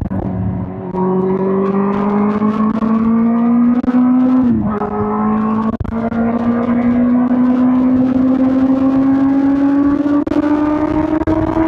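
2005 Suzuki GSX-R1000 K5's inline-four engine pulling under way, its pitch climbing steadily. About four and a half seconds in the revs drop quickly, as at an upshift, then climb steadily again to the end.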